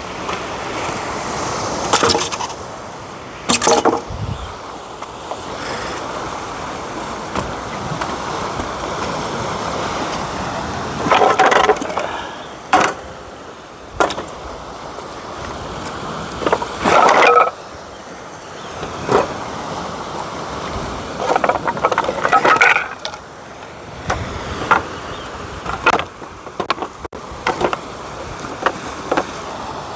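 Driftwood being pulled loose and handled on a rocky shore: repeated clattering knocks and scrapes of wood against wood and stone, over a steady background of wind or surf.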